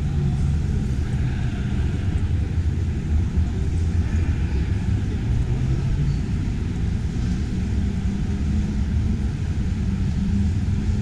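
Steady low rumbling background noise of a large exhibition hall, without distinct events.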